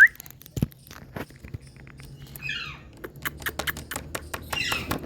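Indian ringneck parrot: a short rising whistle at the start, then a dull thump, a run of small clicks and taps, and two brief raspy calls, one midway and one near the end.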